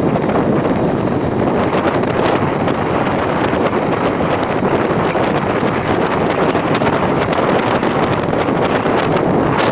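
Loud, steady wind buffeting the microphone: a rough, even rushing noise with no pauses.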